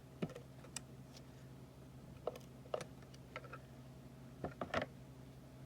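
Scattered light clicks and taps of stamping supplies being handled and set down on a work surface, with a small cluster of louder taps about three-quarters of the way through, over a steady low hum.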